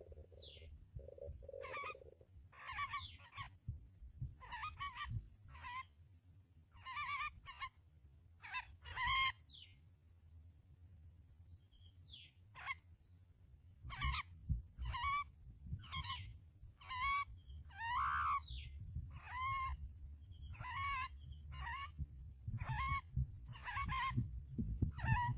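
Harsh, short bird squawks repeated roughly once a second, each call arching around a mid pitch, over a low steady background rumble.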